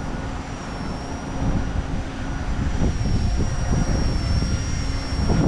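XK K110s collective-pitch micro RC helicopter in flight: a steady high electric-motor and rotor whine that wavers slightly in pitch. Gusts of wind rumble on the microphone, stronger from about a second and a half in.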